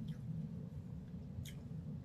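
Quiet mukbang chewing, with two faint wet mouth clicks about a second and a half apart, over a low steady hum.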